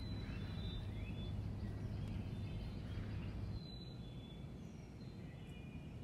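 Songbirds chirping with short, high, thin notes and a few rising phrases, over a steady low rumble of outdoor background noise that drops abruptly about three and a half seconds in.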